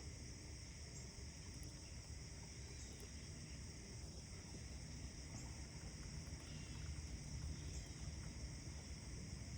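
Faint outdoor morning ambience: a steady low rumble under an even high hiss, with a few faint bird chirps.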